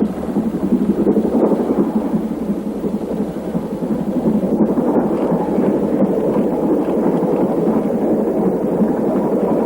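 LMS Stanier Class 5 steam locomotive No. 5407 working past with a train, a loud, steady, dense roar of exhaust and running noise.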